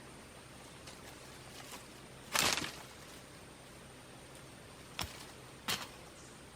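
Three sharp knocks over a steady faint hiss: the loudest, lasting about a third of a second, comes about two and a half seconds in, and two brief ones come close together near the end.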